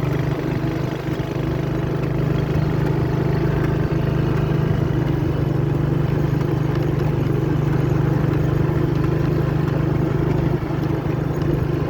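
Vehicle engine running steadily at an even pitch.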